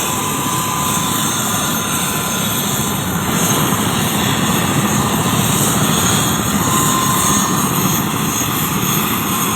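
Helicopter running steadily: a loud, even turbine and rotor noise with a faint high whine.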